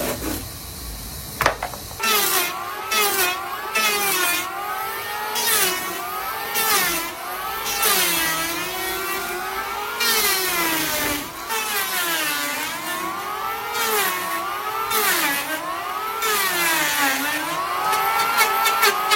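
A motor or engine running, its pitch rising and falling over and over.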